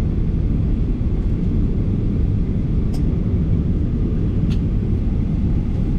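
Boeing 737-800 cabin noise: the CFM56-7B engines and airframe making a steady, deep rumble, with two faint clicks in the cabin partway through.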